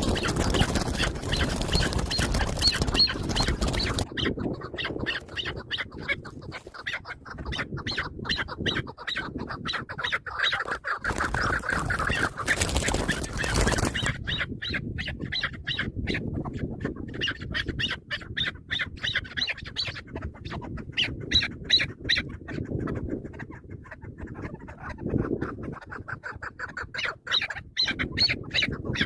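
Chukar partridges calling: long runs of rapid clucking, chattering notes. There are two stretches of loud rushing noise, one at the start and one about halfway through.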